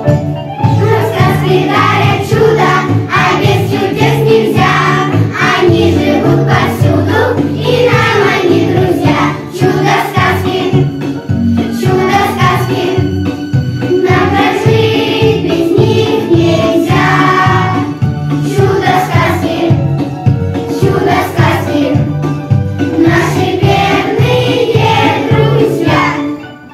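A song sung by a group of voices, like a choir, over instrumental accompaniment with a steady beat. The music fades down at the very end.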